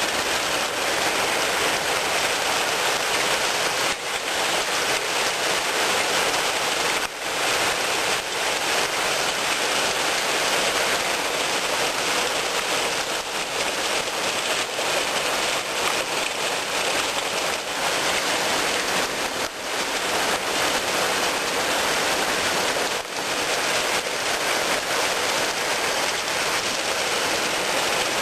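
Heavy rain pouring down, a dense steady hiss of rain hitting surfaces.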